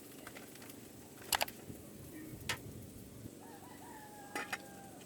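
A rooster crows once, a long, nearly level call beginning a little past halfway through. Three short sharp clicks sound at intervals.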